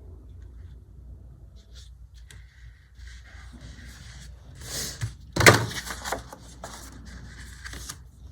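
Paper and sticker sheets being handled and rustled on a desk, with a sharp knock about five and a half seconds in.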